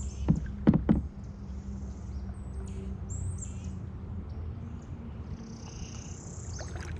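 Wild birds calling, scattered short high chirps and one longer call near the end, over a steady low rumble. Three sharp knocks in the first second.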